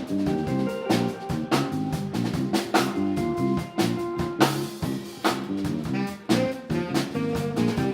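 Live band playing an instrumental jazz-funk tune, the drum kit hitting a steady beat under sustained bass and horn lines.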